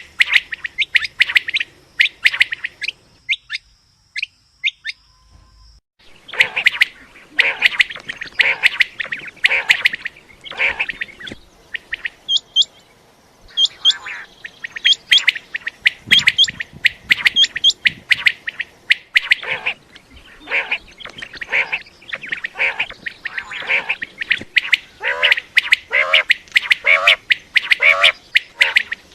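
Common quail calling over and over in quick short notes, a recording used as a lure for quail hunting. The calls break off for a couple of seconds about four seconds in, then resume densely.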